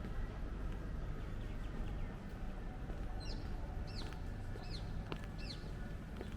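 A small bird calling: four short, downward-sweeping chirps, about one every two-thirds of a second, over a steady low background rumble.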